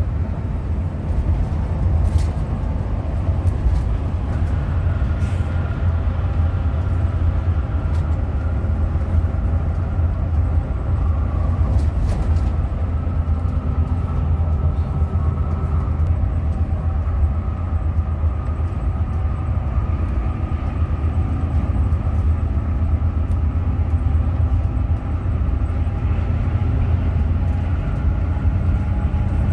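Steady low rumble of a Hino RM 280 coach under way, its diesel engine and road noise running together. A faint whine runs through it, with a few light clicks and rattles.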